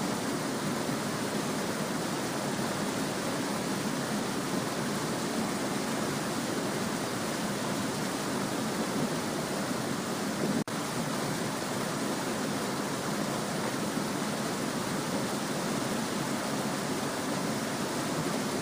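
Small stream babbling steadily, a continuous even rush of flowing water, with a split-second dropout about ten and a half seconds in.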